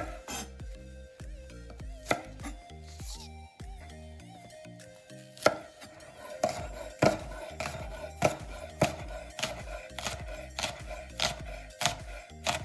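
Kitchen knife chopping scallions on a cutting board: a few single cuts, then steady chopping at about two strokes a second from about halfway through.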